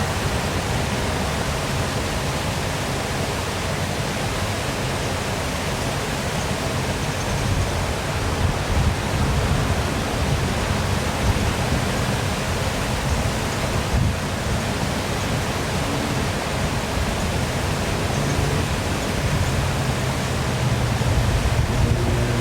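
Waterfall pouring steadily: a continuous rush of falling water with a deep low rumble underneath.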